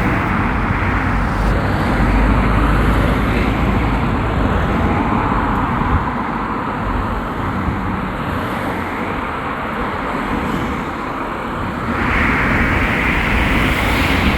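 Road traffic going by: engine rumble and tyre noise from a steady stream of motor vehicles. It eases off somewhat mid-way and swells again near the end as more vehicles pass.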